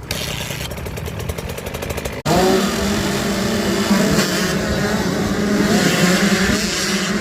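Motocross bike engines revving hard. About two seconds in, a sudden cut jumps to a louder stretch where the engines hold high revs with a wavering pitch.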